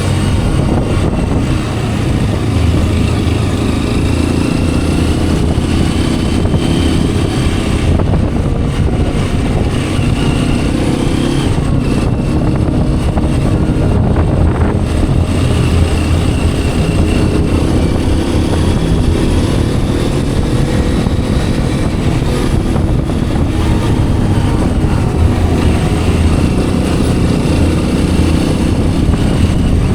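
Hero Xpulse 210's single-cylinder engine and exhaust running steadily under way, the revs rising and falling gently, with road and wind noise.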